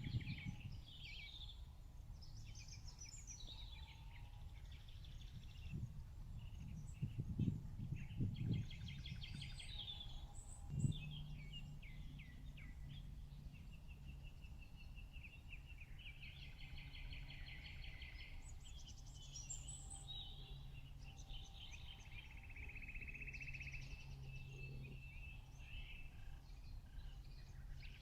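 Several wild birds singing and chirping, with trills and quick runs of repeated notes, over a low steady hum. A few low thumps sound in the first half.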